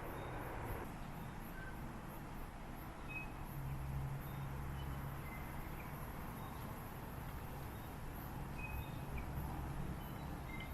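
Outdoor rural background: a low, steady rumble with a faint hum, swelling a little twice, and short bird chirps scattered throughout.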